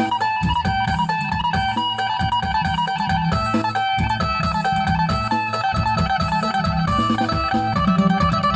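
Phin (Isan Thai lute) music: a quick plucked melody over a steady low beat.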